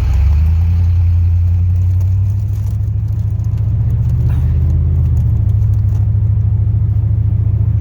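2002 Chevrolet Silverado's 8.1-litre big-block V8 gas engine running steadily with a loud, low drone while the truck is driven.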